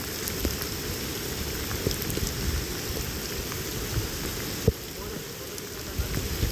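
Steady heavy rain falling, with scattered individual drops striking close by and one sharper drip about two-thirds of the way through.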